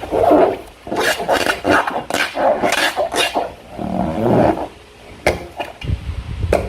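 Slime being squeezed and worked by hand, giving irregular wet squelching, with a couple of sharp clicks near the end.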